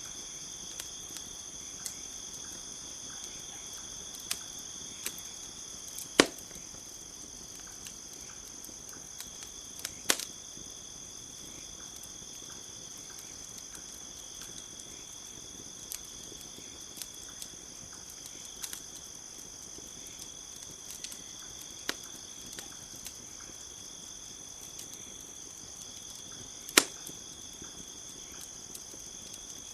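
Campfire crackling, with scattered small ticks and three loud sharp pops. Under it runs a steady high trill of night insects.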